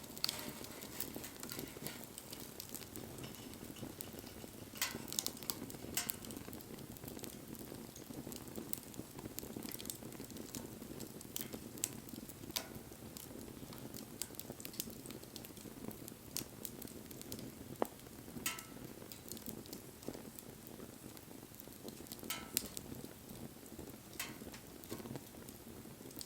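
Wood bonfire burning with a steady low rush of flame, scattered small crackles throughout and several sharper pops.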